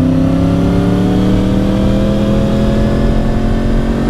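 2010 Yamaha R1's crossplane inline-four with dual Yoshimura exhausts running under way, its note rising slowly and steadily as the bike gathers speed in gear.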